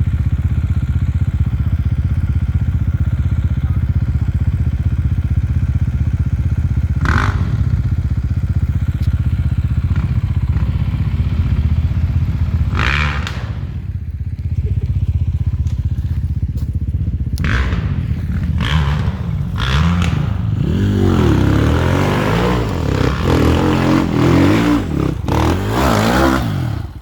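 Off-road enduro motorcycle engine running steadily at low revs, then revving up and down repeatedly for the last several seconds. A few short knocks or clatters sound over it.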